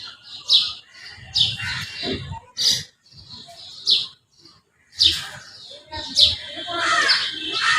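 Common tailorbird calling: short, sharp, high chirps repeated at irregular intervals. Near the end there is a busier stretch of lower, falling chirps.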